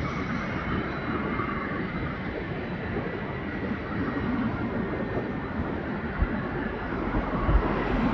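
Jet aircraft engines, a steady rumbling roar with a faint high turbine whine, and wind buffeting the microphone in gusts that grow stronger near the end.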